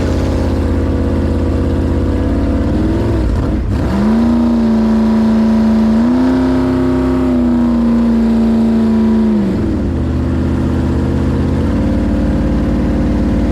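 Jet boat engine running steadily, then revving up about four seconds in, holding the higher revs for around five seconds, and easing back down.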